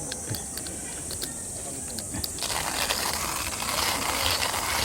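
A run of sharp mechanical clicks, then a steady hissing rush that starts suddenly about halfway through and carries on.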